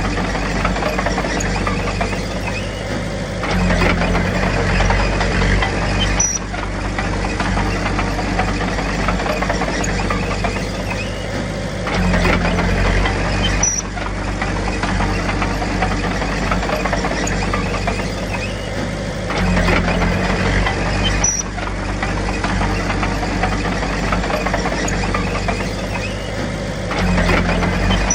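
Komatsu D21P bulldozer's diesel engine running steadily, with a louder, deeper surge about every seven to eight seconds as it takes load, four times, each surge ending with a short sharp click.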